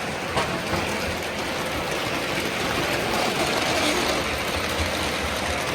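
Steady, mixed background noise of a busy hobby shop, with a single sharp click about half a second in.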